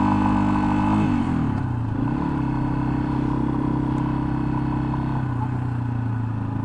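Yamaha XT250's single-cylinder engine running under way. The revs fall about a second in, then settle and hold at a lower steady pitch.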